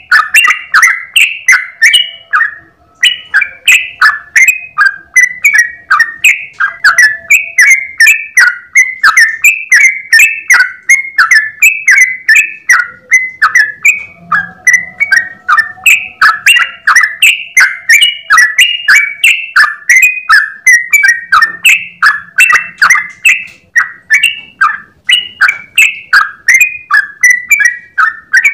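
Yellow-vented bulbul (trucukan) singing its long 'ropel' song: an unbroken run of short, quick bubbling notes, about three a second, with only a brief break about three seconds in.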